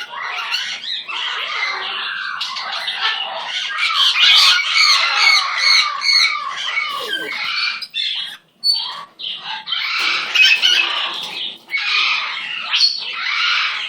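Pet parrot squawking and chattering in a dense run of harsh calls, breaking off briefly about eight seconds in.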